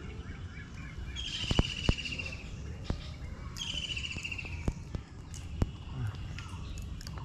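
A songbird sings two short phrases a couple of seconds apart. Each is a rapid trill about a second long, falling slightly in pitch. Under it runs a steady low background rumble, with a few sharp clicks.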